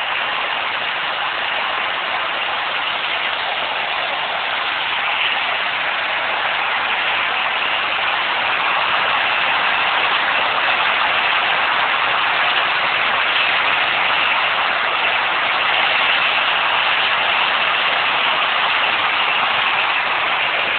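Nissan RB20DET turbocharged straight-six engine running with a steady grinding noise, which the owner places not in the engine block but in one of the rotating parts outside the engine.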